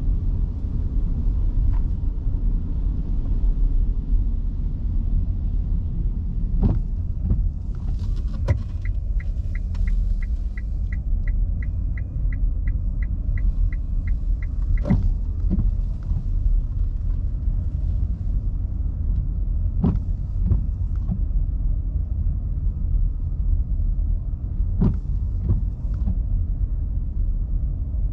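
Electric car driving on a wet road in heavy rain, with a steady low rumble of road and tyre noise. Midway a turn-signal indicator ticks for about six seconds, about three ticks a second, and a few sharp knocks stand out.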